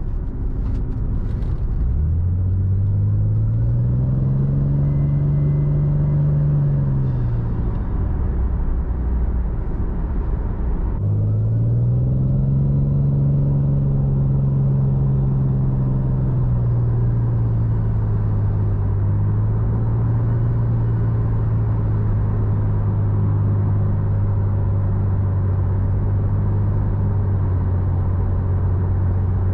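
Toyota Supra MK4's 2JZ inline-six pulling through two moderate accelerations, its note rising and then falling back each time, then settling into a steady cruise, with road rumble underneath.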